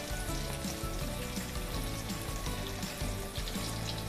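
Egg omelette (khai jiao) sizzling steadily in plenty of hot oil in a wok, with background music playing over it.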